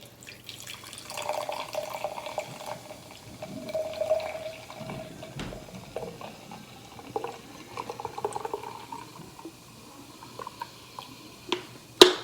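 Orange Crush soda being poured into a cup, the liquid splashing as it fills for several seconds, with a couple of sharp clacks right at the end.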